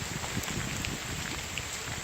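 Steady rain with scattered drops ticking close by, and gusty wind buffeting the microphone with an uneven low rumble.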